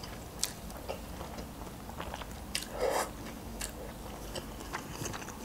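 Close-miked mouth sounds of eating instant noodles: chewing with small wet clicks, and a brief slurp about three seconds in.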